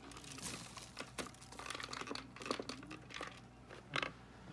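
Irregular crinkling, rustling and light plastic clicks of things being handled by hand, with a sharper knock about four seconds in.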